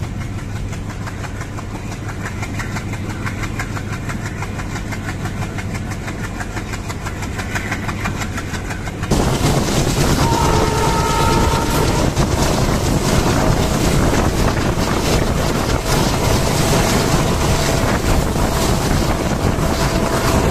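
Passenger train running, heard from on board: a steady running rumble. About nine seconds in, the sound jumps abruptly to a much louder rushing noise.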